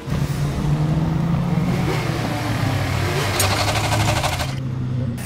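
Cartoon vehicle engine sound effect running steadily. A rapid rattling clatter follows for about a second, then the engine sound drops away: Molly's engine belt breaking.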